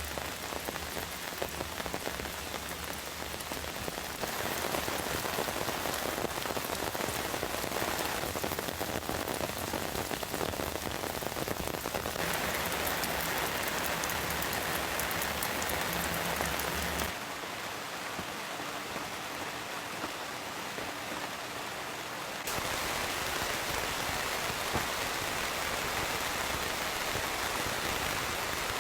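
Steady heavy rain falling, its loudness and tone shifting abruptly several times, with a quieter, thinner stretch a little past the middle.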